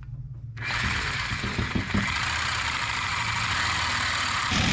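A reciprocating saw starts about half a second in and runs steadily, its blade cutting through a stainless steel exhaust pipe.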